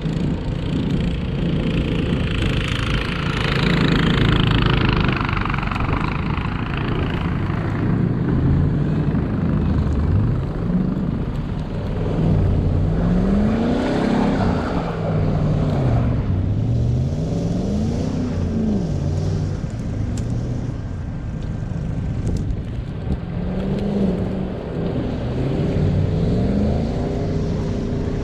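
Car engine running while driving, its pitch rising and falling several times as it speeds up and eases off, over a steady rushing noise.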